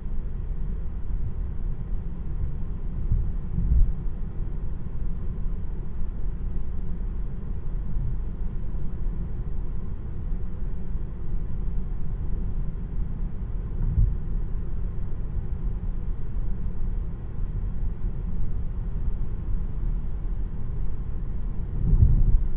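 Steady low road and tyre rumble inside the cabin of a moving 2026 Tesla Model 3 RWD, an electric car with no engine note. There are three brief low thumps: about four seconds in, midway, and near the end.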